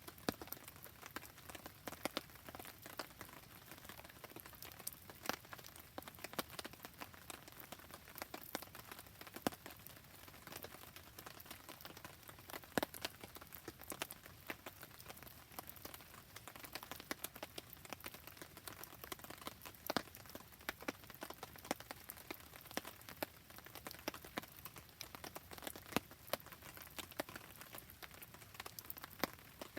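Wood campfire crackling and popping in the rain: a steady hiss of rainfall with irregular sharp pops and ticks scattered through it.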